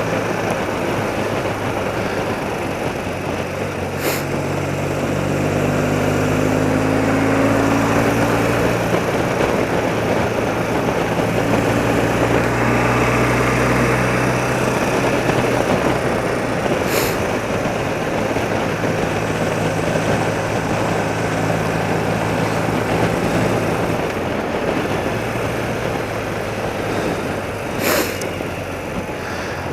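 A 30-year-old BMW motorcycle running at road speed, its engine note steady with small changes in pitch, over a constant rush of wind on the microphone. There are three short sharp clicks along the way.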